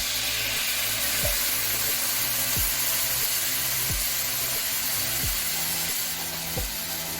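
Hot pan of frying chicken and curry spices hissing and sizzling hard as water is poured in, over background music with a low bass line and a deep kick drum about every 1.3 seconds.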